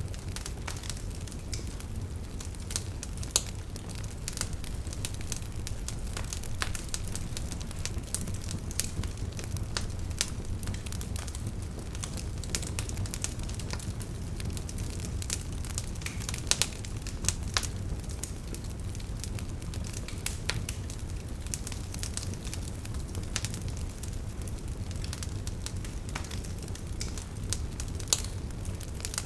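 Wood fire crackling, with irregular sharp pops over a steady low rumble of burning.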